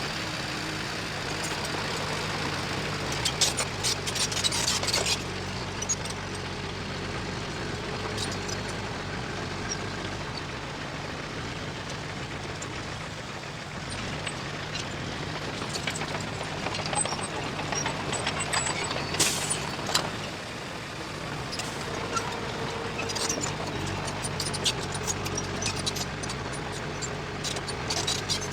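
Heavy earthmoving machine's diesel engine running steadily, with bursts of clanking and rattling about three to five seconds in, briefly around the middle and again near the end.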